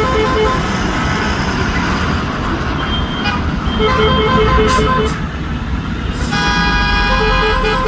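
Multi-tone musical air horn of the kind fitted to buses and trucks, playing a high melody of quick repeated beeps, then holding a chord of several tones near the end, over a low engine rumble.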